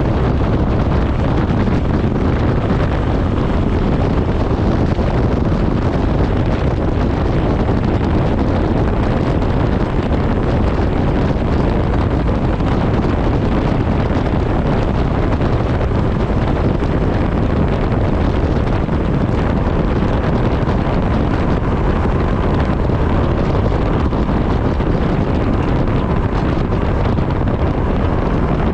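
Steady wind rush over the camera microphone while riding a Suzuki M50 motorcycle at speed, with the bike's V-twin engine and road noise underneath.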